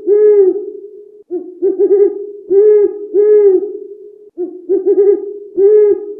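An animal's repeated low hooting calls: each phrase is a quick run of short hoots followed by two longer, arched hoots, the phrase repeating about every three seconds over a steady low drone.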